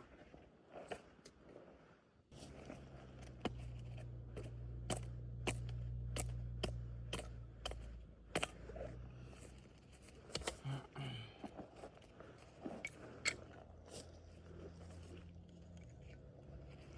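Wood fire crackling, with irregular sharp pops and snaps. A low steady rumble comes in about two seconds in and fades after about eight seconds.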